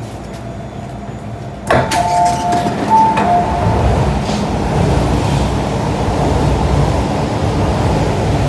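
Hong Kong MTR Kwun Tong line modernised M-Train at a station. A low steady hum gives way about two seconds in to a sudden louder sound with a short two-note electronic chime, then the steady rumble of the train as it moves off past the platform.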